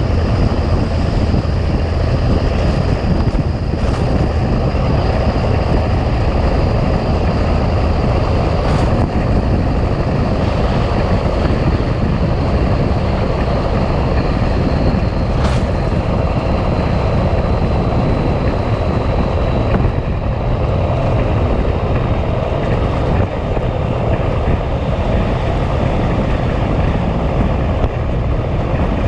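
Big Cam Cummins inline-six diesel in a 1986 Ford LT9000 tractor running steadily under load while hauling, with a faint high whine that slowly drops in pitch.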